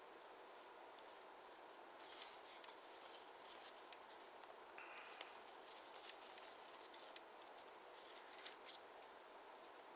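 Faint crackles and rustles of origami paper being handled and creased by hand, a few soft clicks scattered over a low hiss.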